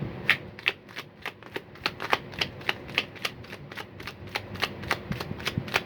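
Tarot deck being shuffled by hand: cards slap and click in a steady rhythm of about four a second.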